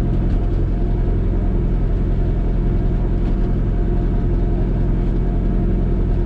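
Rally car engine idling steadily with a constant low hum, heard from inside the stripped, roll-caged cabin.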